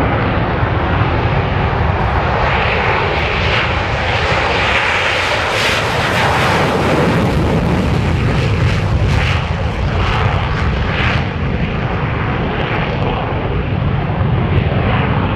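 A fixed-wing aircraft's engines running loud as it passes, the noise strongest about five to seven seconds in and then easing a little.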